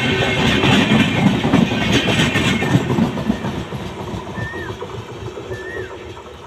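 Express train coaches rushing past on the rails, the wheel noise loud at first and then fading as the last coach goes by and the train pulls away. In the last couple of seconds a short rising-and-falling chirp repeats about once a second.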